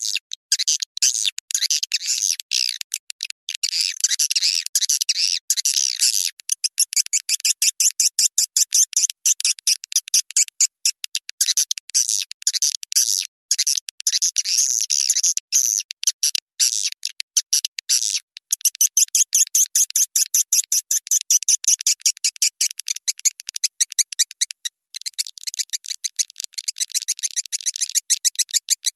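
Swiftlet lure-call recording used in swiftlet farming: a dense, rapid stream of high chirps and twittering clicks. It is cut off below the midrange, as a processed playback track.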